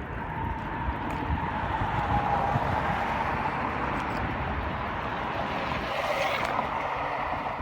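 Steady road and traffic noise heard while riding a bicycle, with wind rumbling on the phone microphone. About six seconds in, a vehicle swells briefly louder.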